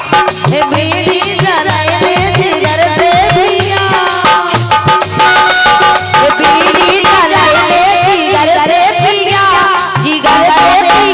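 Bundeli folk music: a drum keeps a steady beat under a quick, ornamented melody, with no words.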